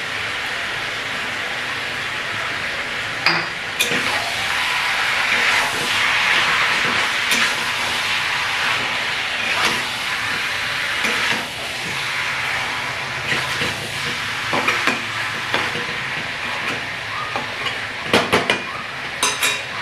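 Marinated chicken sizzling steadily in oil in a wok while a spatula stirs it, knocking and scraping against the pan now and then, with a quick run of spatula clicks near the end.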